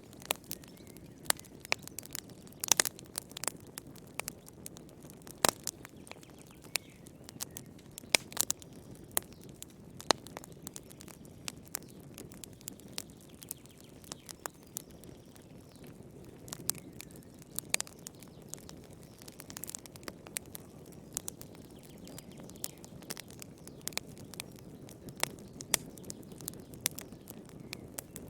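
Fireplace fire crackling: irregular sharp pops and snaps, several a second at times, over a low steady rumble.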